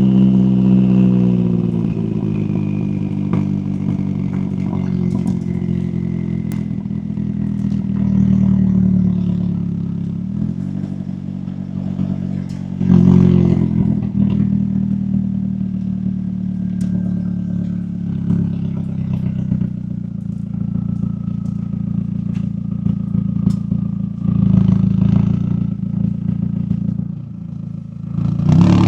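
McLaren 570S twin-turbo V8 exhaust. The revs fall away over the first couple of seconds, then the engine runs lower and steadier with a few brief swells in revs, and picks up sharply again at the end.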